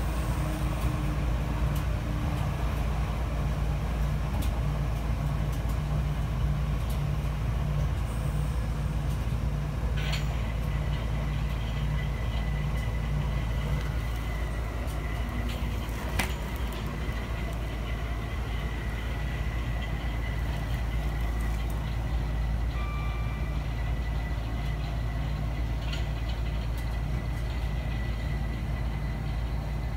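Southeastern Class 465 Networker electric multiple unit heard from inside the carriage while running, a steady low rumble of wheels on track. About ten seconds in a thin steady high tone joins it, and a few sharp clicks sound along the way.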